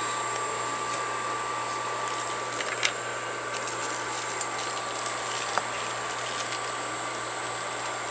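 Steady background hiss with a low hum and faint high whine, broken by a few faint clicks.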